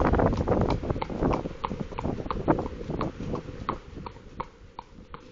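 Horse's hooves clip-clopping in a steady run of knocks, over wind noise on the microphone that fades away during the first few seconds.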